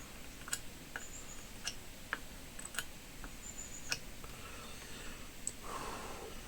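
Scattered light clicks and ticks from hand soldering work on a circuit board, with a few faint, brief high chirps and a short soft hiss near the end.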